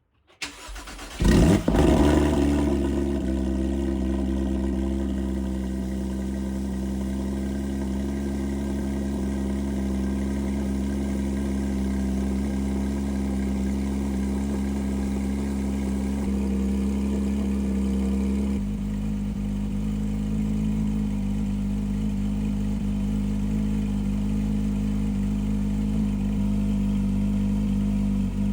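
Cold start of a Porsche 911 GT3 RS (991.2) naturally aspirated 4.0-litre flat-six through a Soul Performance aftermarket exhaust: the starter cranks briefly, the engine catches with a loud flare of revs, then settles into a steady high cold idle. The idle note changes abruptly about two-thirds of the way through.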